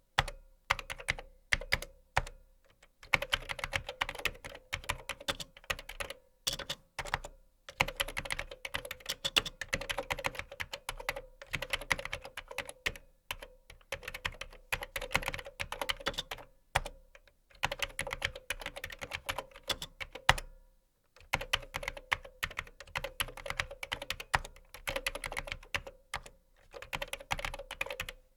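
Typing on a computer keyboard: fast runs of key clicks broken by short pauses, one of about a second near the two-thirds mark.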